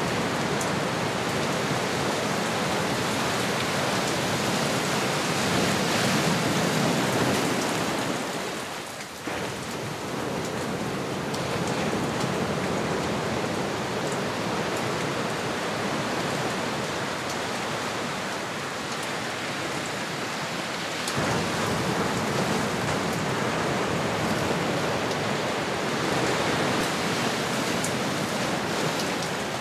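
Ocean surf: a steady wash of waves, easing off briefly about nine seconds in and swelling again about twenty-one seconds in.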